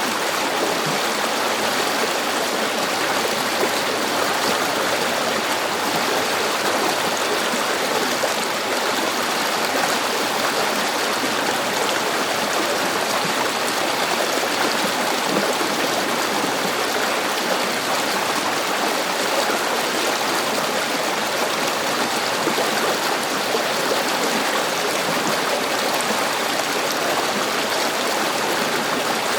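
River water flowing and rushing over stones, a steady, even rush without pause.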